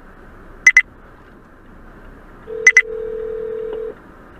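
Telephone line tones on a 911 call as it connects: a sharp double beep about every two seconds, with a steady ringing tone lasting about a second and a half in the middle.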